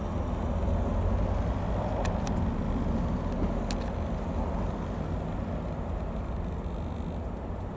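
TL-3000 Sirius light aircraft's single piston engine running steadily with a low rumble, swelling a little about a second in and easing off slowly; a few short clicks sound around two and nearly four seconds in.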